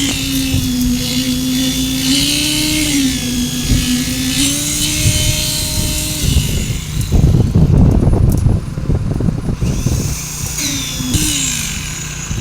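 Construction machinery on a concrete slab pour. A steady, slightly wavering motor whine runs for about six seconds, then gives way to about three seconds of loud, rough noise. Near the end the whine briefly returns and falls in pitch.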